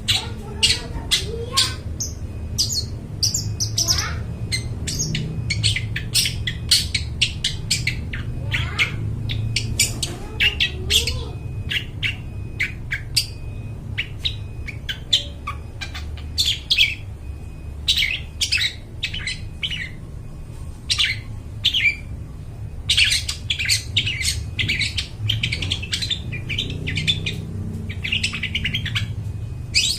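Long-tailed shrike (cendet) singing actively: a rapid, dense run of short, sharp chirps and chatters, with a brief lull about halfway through.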